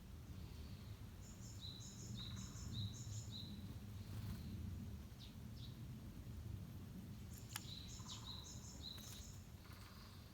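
A small songbird singing two short phrases, each a quick two-note figure repeated about four times, high then lower, over a steady low outdoor rumble.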